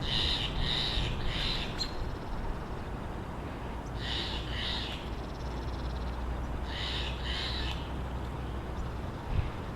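American robin calling in short, harsh notes, in three groups of two or three notes a few seconds apart, over a steady low rumble.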